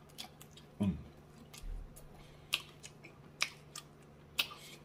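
Close-miked chewing of a mouthful of Cuban sandwich: scattered wet mouth clicks and smacks, with a short low hum of the voice about a second in.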